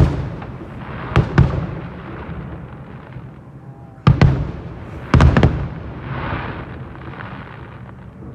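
Fireworks display: aerial shells bursting with sharp bangs, two about a second in, another near four seconds and a quick cluster of three about five seconds in, each followed by a rolling echo.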